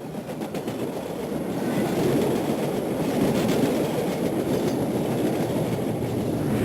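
Train wheels running on rails: a steady rumble with faint repeated clicks, growing louder over the first two seconds and then holding.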